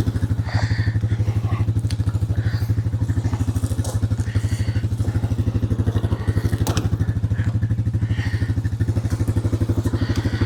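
Small single-engine utility vehicle idling steadily with a fast, even exhaust beat, with a few light knocks and clanks over it.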